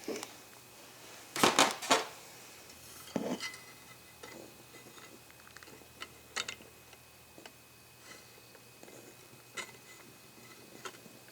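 Metal hardware and hand tools clinking and knocking as they are handled, loudest in a short cluster about a second and a half in, then a few sparser, fainter clicks.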